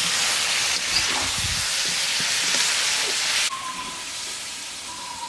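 Spiced beef pieces frying in a hot iron karahi, a steady loud sizzle that drops abruptly to a much quieter sizzle about three and a half seconds in.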